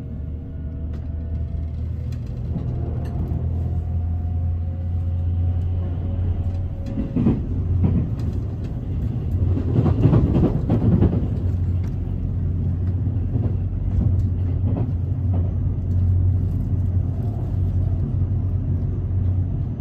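Electric train running, heard from inside the carriage: a steady low rumble, with a faint slowly rising motor whine in the first few seconds. It grows louder with clattering from the rails around seven to eleven seconds in.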